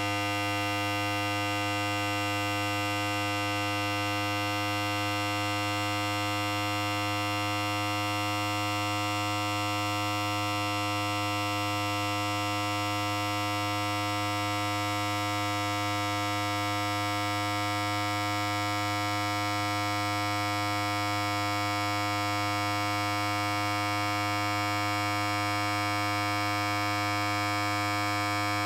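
Electric hair clipper running continuously, a steady unchanging buzz with a strong low hum and a bright overtone edge.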